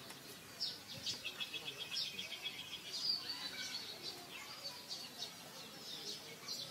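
Small birds chirping: repeated short, high chirps, with a rapid trill of about ten notes a second from about one second in, lasting around a second and a half.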